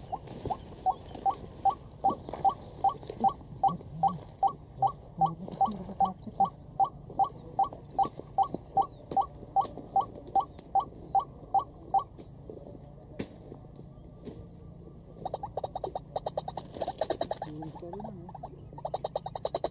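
White-breasted waterhen calling: a long run of loud, evenly repeated short notes, about two and a half a second, that stops about twelve seconds in. A faster, denser run of calls starts about three seconds later and carries on to the end.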